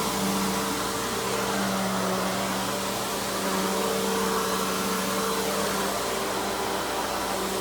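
Simplicity Symmetry Deluxe upright vacuum with its 12-amp single-stage motor running steadily, a constant whooshing rush of air over a low hum.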